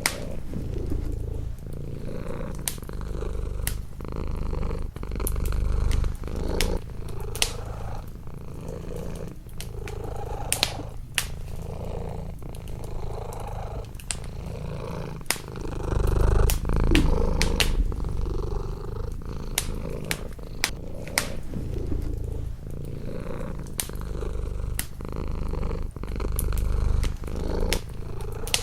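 Domestic cat purring, a low rumble that swells and fades, loudest about two-thirds of the way through. Sharp crackles and pops from a wood fire in a fireplace are scattered throughout.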